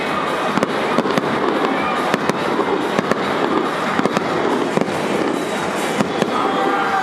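Fireworks going off: an irregular run of sharp bangs and crackles, several in each second.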